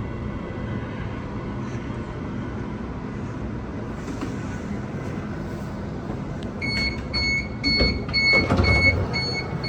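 Mariyung D-set electric train standing at a platform with a steady low hum. About seven seconds in, the door-closing warning starts: a rapid series of high beeps, about three a second, with a louder knock and rumble from the doors shortly after.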